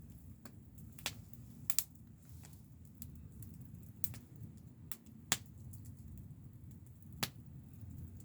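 Wood fire crackling: sharp, irregular pops over a low steady rumble.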